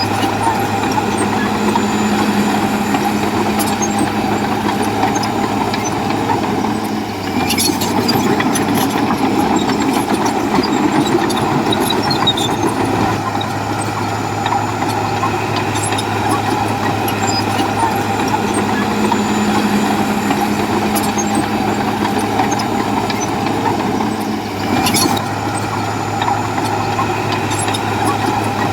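Heavy diesel engine of a bulldozer working steadily. Its note drops and picks up again twice, about a quarter of the way in and near the end, each time with a short burst of noise.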